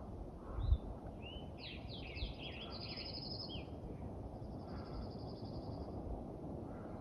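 A songbird singing a run of quick varied phrases followed by a high buzzy trill, over a steady low rushing background. A short low thump about a second in.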